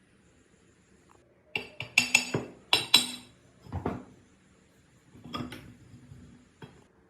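Metal parts and tools clinking and knocking against each other and a hard work surface as they are handled. There is a quick run of sharp, ringing clinks in the first half, a few more a little later, and one last click near the end.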